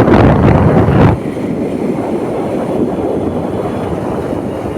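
Wind buffeting the microphone with the rush of road noise on a moving bike: heavy and loud for about the first second, then a steadier, quieter rush.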